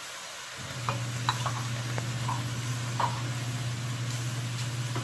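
Chicken, onions and bell peppers sizzling in a stainless steel pot as they are stirred with a plastic spoon, with a few light scrapes of the spoon in the first few seconds. A steady low hum starts about half a second in.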